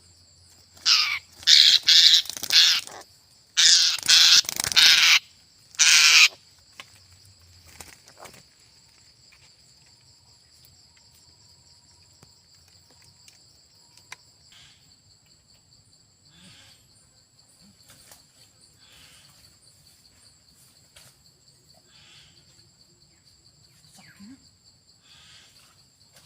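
A bird gives three loud, harsh calls in the first six seconds over a steady high-pitched insect drone. After that only the insect drone and a few faint chirps remain.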